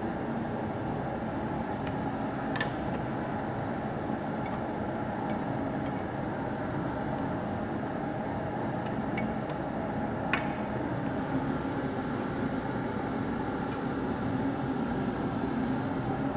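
Light metallic clinks of hand tools on tractor parts during disassembly, a couple of sharp ones about two and a half and ten seconds in, over a steady background hum.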